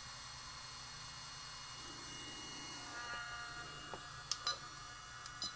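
Steady faint electrical hum and hiss. About halfway through a faint steady tone comes in, and near the end a few small sharp clicks sound, like parts or connectors being handled.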